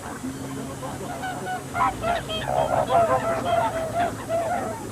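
A flock of geese honking, many short calls overlapping and growing denser about halfway through, over a low steady hum.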